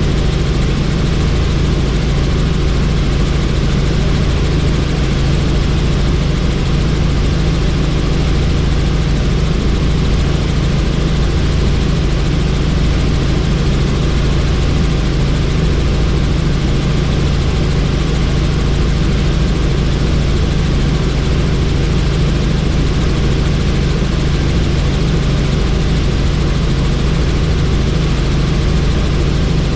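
Helicopter rotor and engine heard from inside the doors-off cabin: a steady, loud, low drone mixed with rushing air noise, unchanging throughout.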